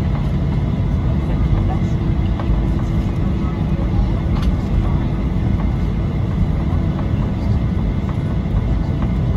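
Steady low rumble inside the cabin of a Boeing 737-800 on the ground after landing, its CFM56 engines and air systems running, with faint murmur from passengers.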